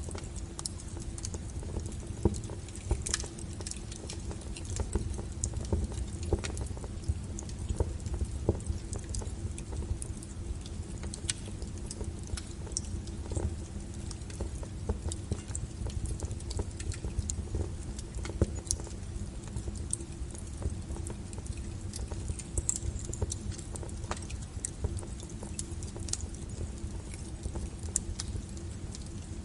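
Wood fire burning, with a steady low rumble from the flames and irregular crackles and sharp pops from the burning firewood.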